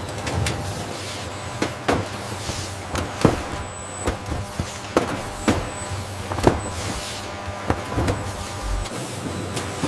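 Processing-line machinery running with a steady low hum, over which come irregular sharp clicks and clanks about once or twice a second, plus a few short hissing whooshes.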